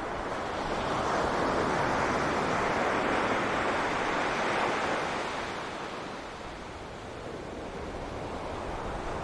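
Ocean waves breaking on a beach: the surf swells up about a second in, holds for a few seconds, then washes away, and the next wave begins to build near the end.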